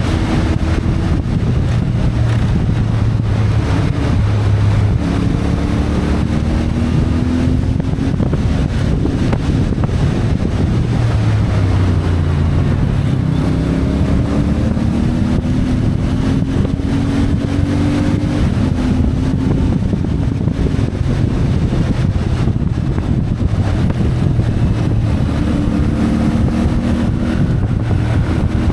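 CFMoto 450MT's parallel-twin engine running under way, its pitch rising and falling repeatedly as the bike speeds up, shifts and slows, with wind noise on the microphone.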